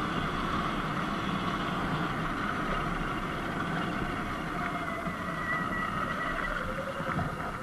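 Sur-Ron Light Bee X electric dirt bike riding along a dirt road: a steady whine from its electric motor over chain and tyre noise, with a faint higher whine joining about five seconds in.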